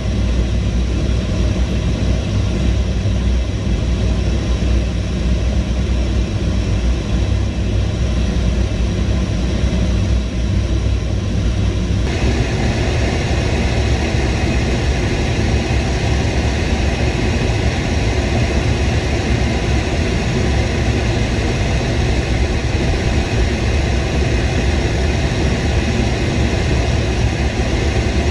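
Aircraft engines running, a steady low rumble. About twelve seconds in the sound changes abruptly, with more hiss higher up.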